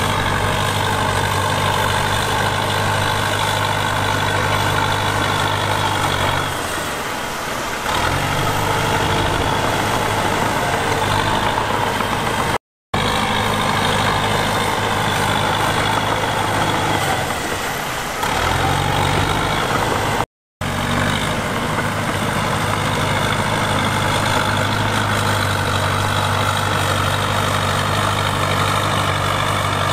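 Heavy diesel engine of earthmoving equipment running steadily. Twice its note sags lower and then recovers. The sound drops out abruptly for an instant twice.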